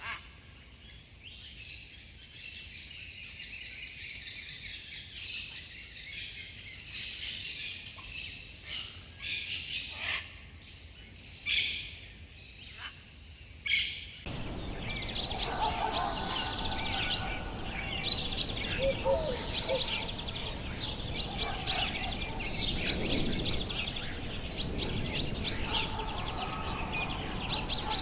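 Forest birds chirping and calling over a steady high-pitched chorus. About halfway through the ambience cuts abruptly to another recording with a louder background hiss, many short repeated chirps and some lower whistled notes.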